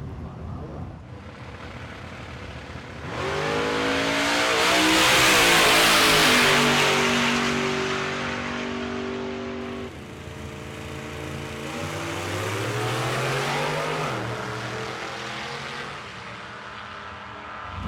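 Vintage drag cars' engines at the drag strip. About three seconds in, a car runs at full throttle, loud and high-revving with a rush of noise, holding a steady pitch until the sound cuts off abruptly about ten seconds in. Another engine then revs up, rising in pitch, and drops away.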